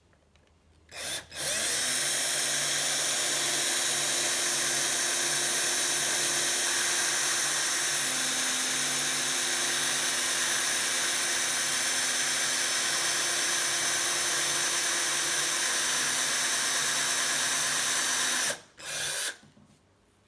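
Small electric drill boring a hole through a quick-release skewer lever. A short blip about a second in, then a long steady run at constant speed that stops near the end, with one more brief blip.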